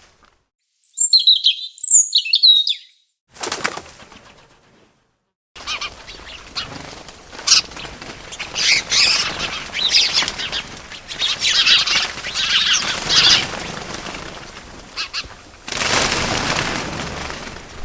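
Birds chirping and wings flapping. A few sharp high chirps come near the start, then a short flutter. After a silent gap, a long busy stretch of wing fluttering mixed with rapid chirps follows.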